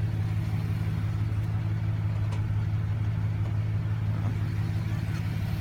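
2005 Chevrolet Silverado 1500's 4.3-litre V6 idling steadily.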